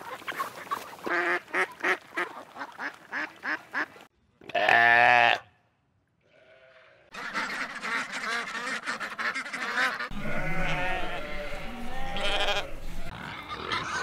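A run of wild animal calls. Rapid, rhythmic chattering calls come first, then one loud call about a second long, a short gap, and then several wavering calls overlapping until the end.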